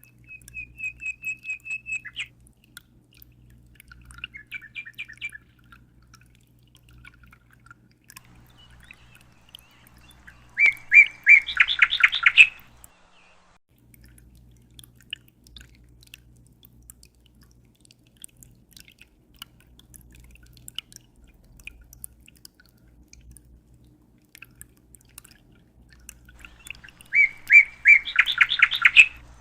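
A small bird singing: a quick trill of about eight even notes at the start, a softer phrase a few seconds later, and two loud bursts of rapid chirps, one about eleven seconds in and one near the end. A faint low hum runs underneath.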